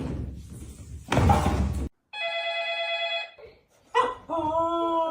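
An electronic ringing tone, a steady chord of high tones lasting just over a second, after a loud brief rustle. Near the end comes a wavering pitched call that slides down.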